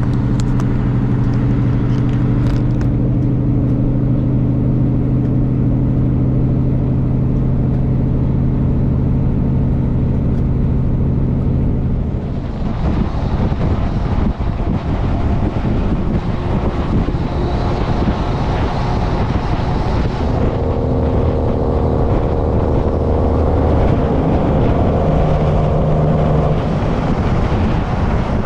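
Semi truck driving on the highway: steady engine hum and road noise. About twelve seconds in the even hum gives way to a rougher, noisier road sound with shifting tones.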